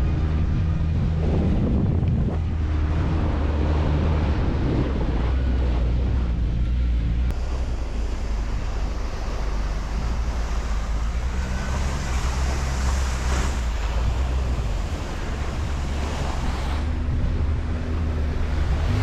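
ATV engine running, its pitch shifting up and down with the throttle, with wind buffeting the microphone.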